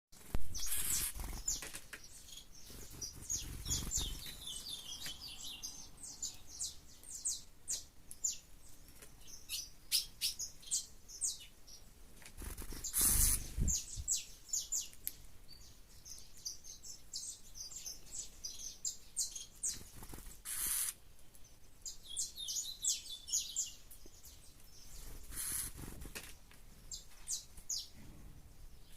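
Caged songbirds, kept as the breeder's trinca-ferro and coleiro, singing in repeated bursts of quick, high chirps with short pauses between phrases. A few brief rustling bursts stand out, the loudest about thirteen seconds in.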